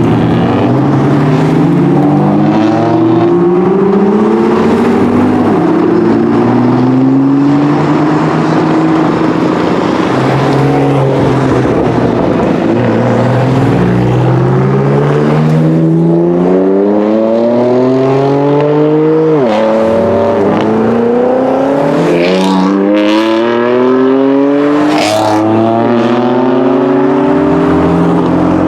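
BMW performance car engine accelerating hard through the gears: its pitch climbs again and again, dropping suddenly at each upshift. A few short, sharp noises come near the end.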